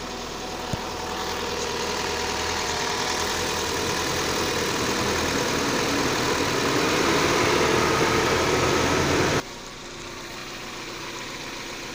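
Opel Mokka's petrol engine idling after a cold start, warming up on a repaired ignition coil module. It runs evenly with no misfire, which the owner takes as the repair working. It grows gradually louder, then drops abruptly about nine seconds in.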